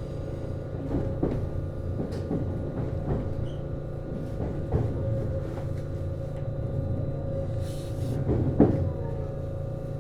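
Stationary HB-E210 hybrid railcar humming steadily from its onboard equipment, with scattered knocks and clicks throughout and a louder knock near the end.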